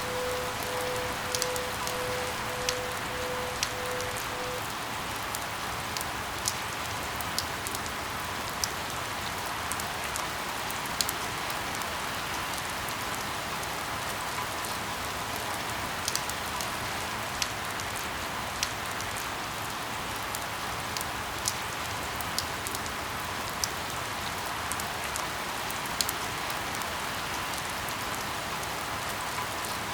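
Steady rain hiss with sharp, irregular drops ticking close by every second or two. A faint pulsing tone sounds for about the first four seconds and then stops.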